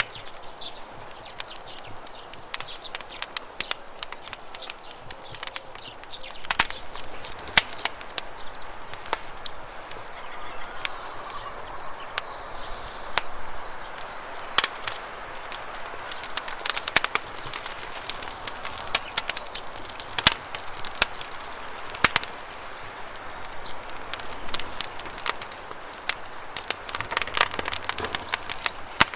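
Wood campfire crackling with frequent sharp pops and snaps, over the steady rush of a river. A bird chirps faintly in a short high trill about halfway through.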